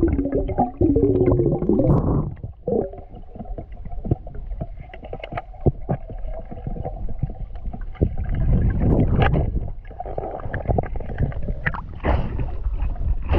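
Muffled water sounds from a camera in the water while swimming: a low rumble with gurgling, scattered clicks and knocks. Sharper splashes come in near the end.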